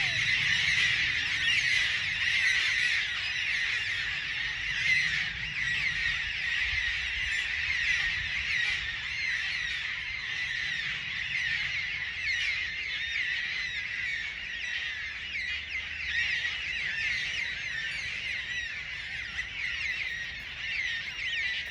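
Dense chorus of many frogs calling at once, an unbroken mass of short high chirps.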